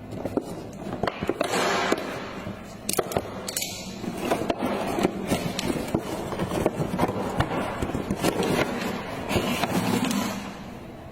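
Plastic toy truck being handled and moved across a hard surface: a scraping, rolling noise with many small clicks and rattles.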